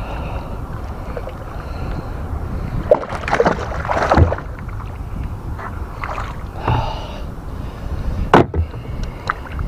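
Water splashing and sharp knocks as a hooked river bass is brought to the kayak, loudest about three to four seconds in and again near the end, over a steady rumble of wind on the microphone.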